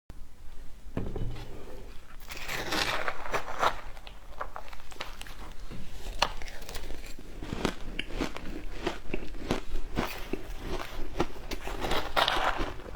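A person biting and crunching frozen matcha ice: sharp cracks with crackling chewing between them, and denser spells of crunching about two seconds in and near the end.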